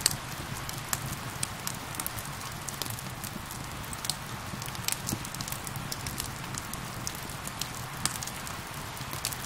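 Steady rain with a wood fire crackling over it. Sharp pops are scattered irregularly throughout, the loudest right at the start.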